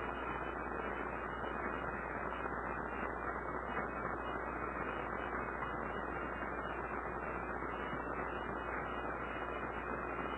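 Steady hiss with a low electrical hum underneath, unchanging throughout: the recording's background noise floor.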